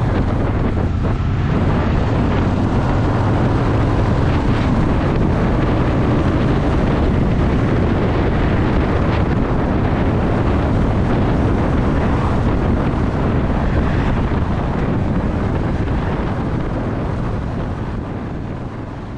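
Honda Shadow VT750's V-twin engine running steadily under way, with wind buffeting the microphone; the sound fades out near the end.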